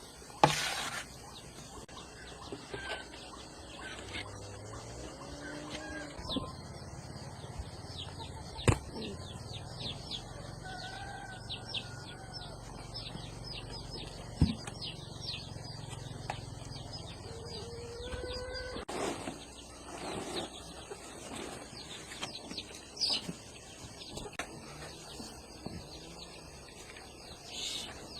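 Chickens clucking and small birds chirping in the background, with a few sharp knocks. A low hum runs through the middle.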